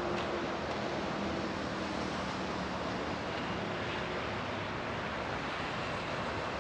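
Steady wash of distant traffic noise and wind, with a faint engine hum in the first few seconds.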